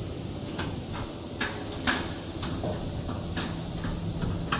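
Scattered light clicks and knocks of hands and tools working on a band saw paper cutting machine while its lead screw is adjusted, over a steady low machine hum.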